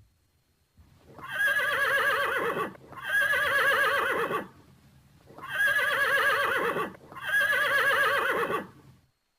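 Horse whinnying: four long quavering whinnies in two pairs, each about a second and a half long.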